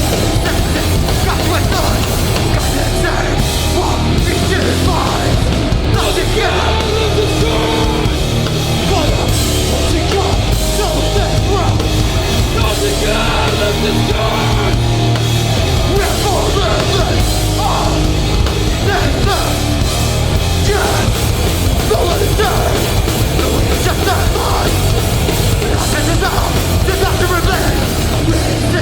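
Hardcore punk band playing live at high, steady volume: distorted guitars, bass and a drum kit.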